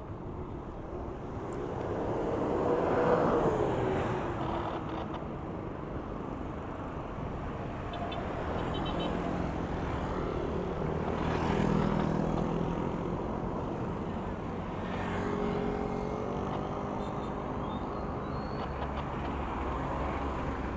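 Road traffic: motor vehicles pass one after another over a steady road noise, the loudest about three seconds in, its engine note falling as it goes by, and another around twelve seconds.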